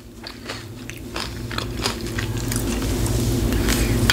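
Close-miked eating and mouth sounds: scattered small clicks and crunches of chewing, over a low rumble that grows louder toward the end.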